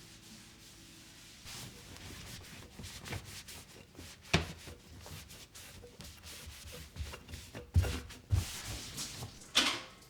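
Rubbing and scrubbing at an uneven pace, broken by a few sharp knocks and thumps as things are handled.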